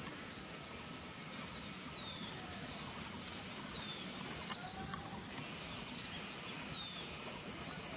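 Rural outdoor ambience: a steady high-pitched insect drone, with a bird giving a run of short falling chirps, about one a second, from about two seconds in.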